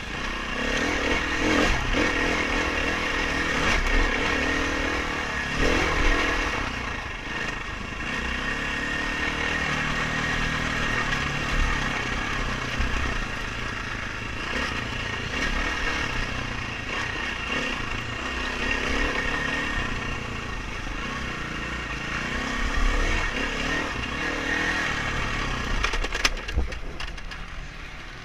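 Dirt bike engine revving up and down over and over as it is ridden, its pitch rising and falling. It eases off near the end.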